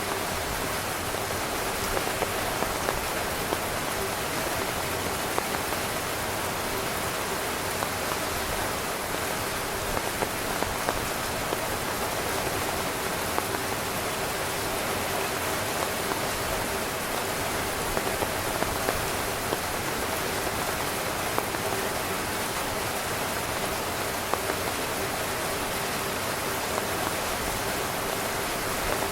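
Steady rain falling on a tent, a dense even hiss with many individual drops ticking sharply against the fabric.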